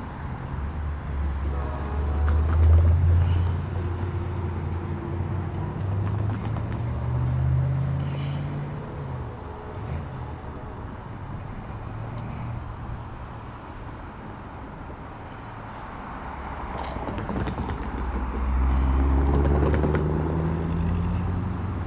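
Road traffic: motor vehicles running past with a low engine rumble, two of them rising in pitch as they accelerate, the first about two seconds in and the second near the end.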